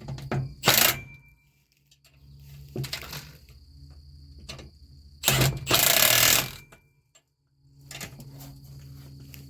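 Several short bursts of a power tool over a steady hum. The longest burst, a little past the middle, lasts about a second.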